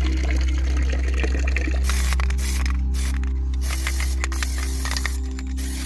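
Water spraying and splashing, a rushing hiss that breaks off in short gaps from about two seconds in, over a steady low hum and background music.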